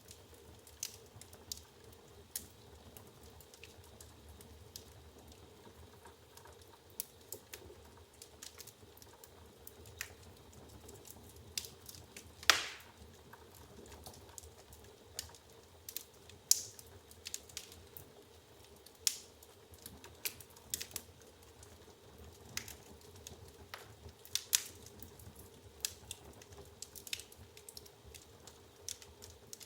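Wood fire burning in an open fireplace: irregular crackles and sharp pops from the burning logs, with one louder pop about halfway through, over a faint low background.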